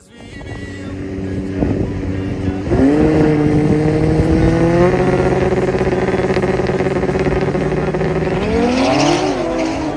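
Racing vehicle engine revving hard: its pitch climbs about three seconds in, holds a steady high note, then wavers up and down near the end.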